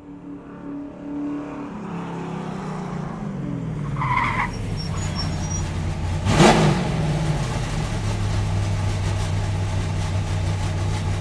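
Car engine running, its pitch falling over a couple of seconds, with a short squeal about four seconds in. A sudden loud burst comes about six and a half seconds in, after which the engine runs on at a steady low note until it cuts off.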